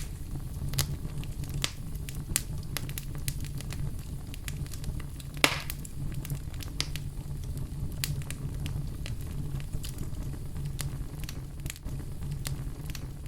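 Wood fire burning in a fireplace, crackling with scattered sharp snaps over a steady low rumble of the flames. One louder pop comes about five and a half seconds in.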